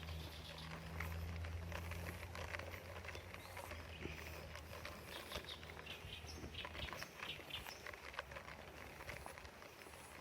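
Small birds chirping in woodland, short high calls scattered throughout, over a low steady hum that stops about seven seconds in.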